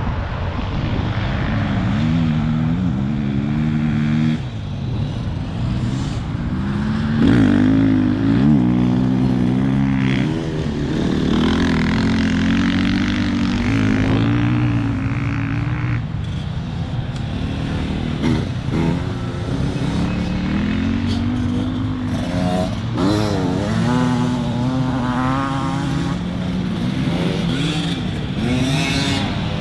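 Enduro motorcycle engine under riding load off-road, its pitch climbing and dropping again and again as the throttle is opened and closed, over steady rushing noise.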